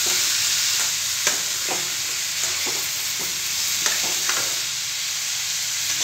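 Diced carrots sizzling in hot oil in a metal kadhai while a metal spatula stirs them, scraping and knocking against the pan about every half second. The strokes thin out about two-thirds of the way through, leaving the steady sizzle.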